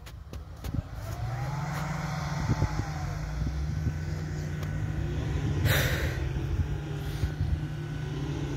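Kia Sportage's engine pulling steadily at an even pitch as the SUV drives off-road through snow and mud. It grows louder about a second in, and a short rush of noise cuts across a little past halfway.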